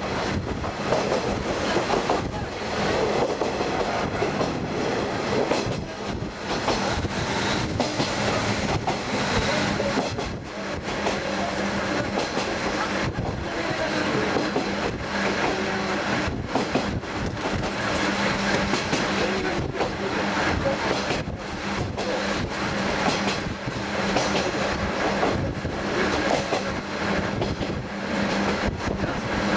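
Diesel railcar running along the line, heard from on board: a steady engine hum under continuous wheel and track roar, with rail-joint clickety-clack.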